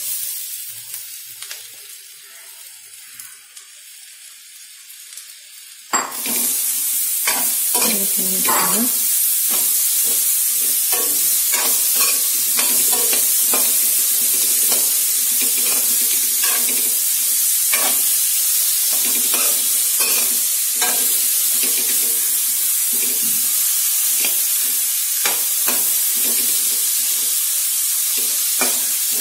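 Sliced ivy gourd (tindora) frying in hot oil in a metal kadai, a steady sizzle, with a spatula stirring and scraping against the pan in irregular strokes. The sizzle is faint at first and jumps up suddenly about six seconds in.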